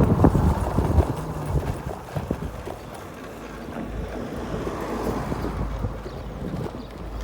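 1600-watt Chaos GT electric scooter being ridden, with wind rushing over the microphone. Clattering knocks in the first second or two give way to a steadier low rumble.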